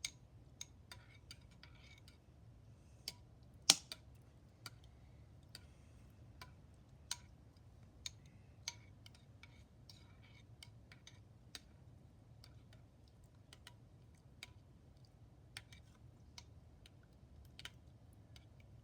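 Spoon stirring yeast into warm water in a bowl, clicking against the side at irregular intervals, roughly once a second, with one louder knock about four seconds in.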